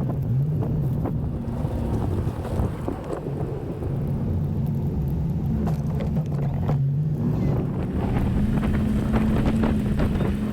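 2004 Chevy 1500 pickup's engine running steadily while plowing snow, its pitch rising a little about eight seconds in, with scattered short knocks.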